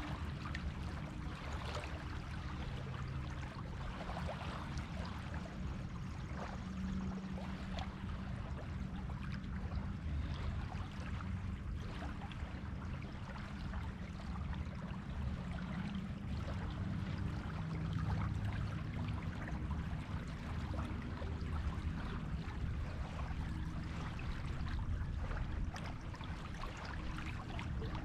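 Surf washing steadily on a beach, a continuous wash of water with a low rumble beneath it.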